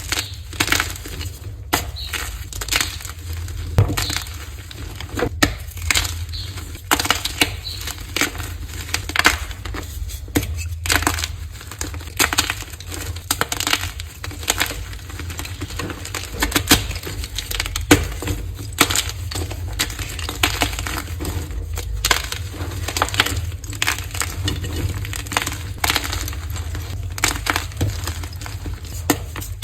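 Dyed gym chalk blocks being crushed: a dense, irregular run of crisp crunches and crumbles, with a steady low hum underneath.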